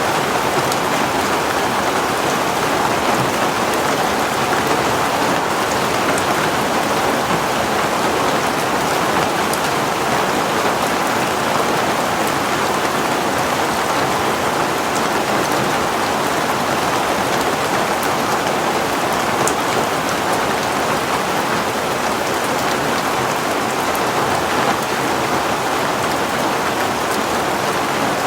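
Heavy rain falling steadily, an even hiss of rain on surfaces with a few faint drop ticks.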